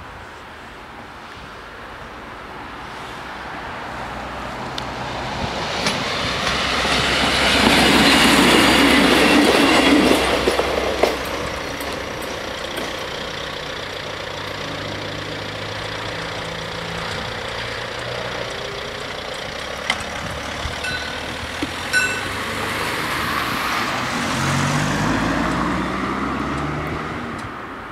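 A local passenger train passing over a level crossing, building up and loudest about six to eleven seconds in, its wheels clattering on the rails. Near the end a car's engine picks up as it pulls away over the crossing.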